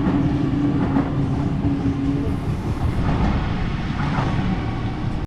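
Two Sydney Trains Waratah electric multiple units (an A set and a B set) departing together, giving a steady low rumble with a hum over the first half. The sound cuts off abruptly at the end.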